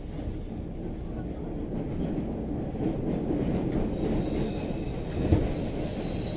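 Subway train running, a low rumble that grows louder over a few seconds, with a single sharp knock about five seconds in and a faint high wheel squeal in the second half.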